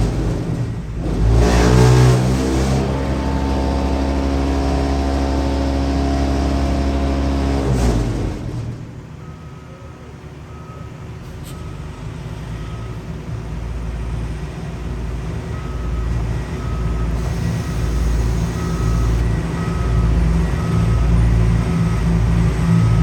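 Diesel engines of heavy paving equipment running and revving, loud for the first eight seconds and then dropping away. After that a back-up alarm beeps steadily while a diesel engine with a pulsing beat grows louder.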